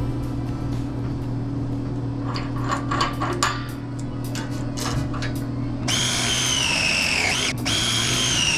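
Tool clatter: a run of sharp clicks and knocks over a steady low hum. About six seconds in, background music with high wavering tones cuts in.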